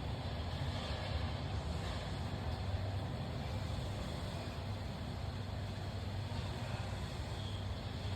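Steady low background hum with an even hiss and no distinct events.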